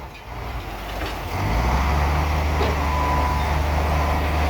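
Heavy diesel engine of earth-moving machinery running with a low, steady sound that swells up about a second and a half in and then holds. A brief high tone sounds about three seconds in.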